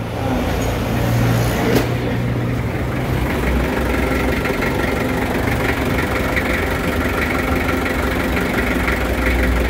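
Mitsubishi Adventure's engine idling steadily while its power steering is checked after a rack-and-pinion rebuild, with a single click about two seconds in.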